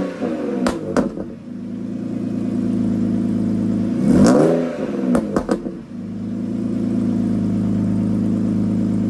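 BMW E39 528i's 2.8-litre straight-six, ECU-tuned, idling through its exhaust and blipped twice: one rev dies away right at the start and a second rises and falls a little after 4 seconds. Each blip is followed by a few sharp cracks, two near the start and three or four just after 5 seconds. The engine then settles back into a steady idle.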